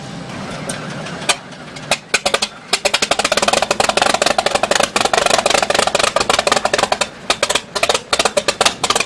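Continental O-470 six-cylinder aircraft engine on a Cessna 310 trying to start after overhaul. It fires unevenly in ragged bursts of coughs and pops instead of settling into a smooth run, a rough start that doesn't sound good.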